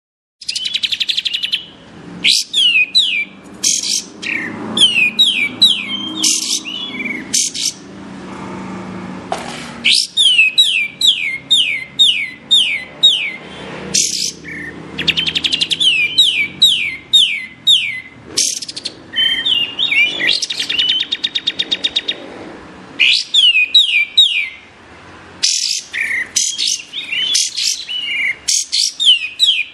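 Kapas tembak songbird singing: rapid runs of sharp, downward-sweeping whistled notes in bursts with short pauses between them. This is the call used as master song for training murai batu.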